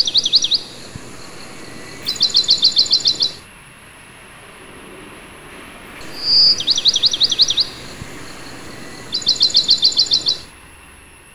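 Bird song in two alternating phrases: a short whistle followed by a quick run of sliding notes, then a fast burst of evenly repeated notes. The pair of phrases is heard twice.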